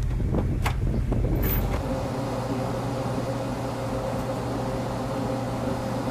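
Loud low mechanical rumble with a few sharp knocks, changing abruptly about two seconds in to a steady machine drone with a held hum.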